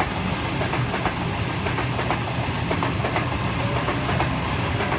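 Sydney Trains Waratah (A set) double-deck electric train passing through the station: a steady rumble of wheels on the rails, with repeated clicks as the wheels run over the track.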